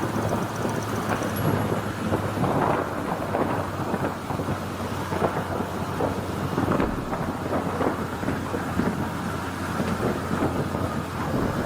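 Wind buffeting and rumbling over a bodycam microphone at road speed, with a motorcycle engine running steadily underneath.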